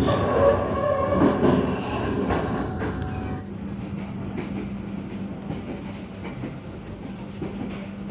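Indonesian passenger train running on the rails, heard from inside a carriage. About three and a half seconds in, the sound drops to a quieter steady running noise with a constant low hum.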